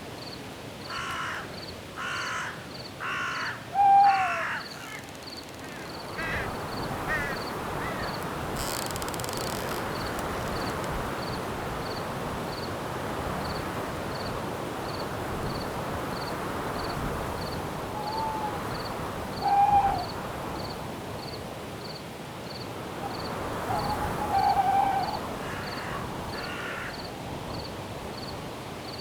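Night forest ambience: wind in the trees with crickets chirping steadily about one and a half times a second. Harsh, rasping bird calls come four in a row near the start and again near the end, with a few short whistled calls between them.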